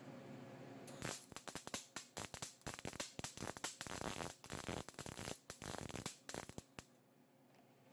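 Welding arc crackling and spitting in short, irregular bursts for about six seconds, starting about a second in, while a patch is welded onto a rusted-out tractor muffler.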